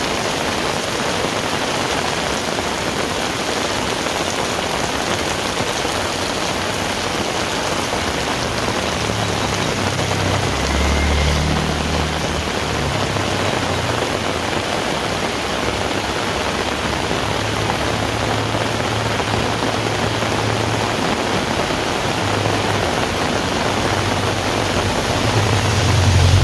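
Heavy rain falling steadily. A low rumble swells about ten seconds in and again builds toward the end.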